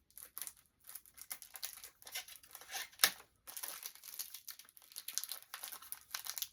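Packaging crinkling and rustling as it is handled during an unboxing, in irregular bursts, with one sharp click about three seconds in.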